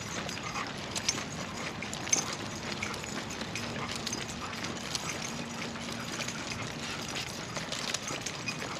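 Footsteps of a walker and dogs on a walk: a steady patter of small clicks and taps.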